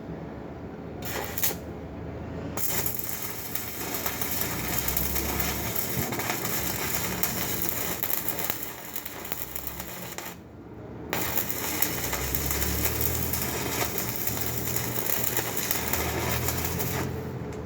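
Electric arc welding on a foundation bolt: a brief arc strike about a second in, then a steady crackling sizzle of the arc. It breaks off for about a second midway, then strikes up again and runs until just before the end.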